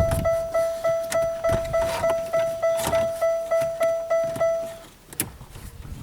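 A car's electronic warning chime repeating about three times a second, stopping a little under five seconds in, with a few light knocks alongside it and a sharp click shortly after it stops.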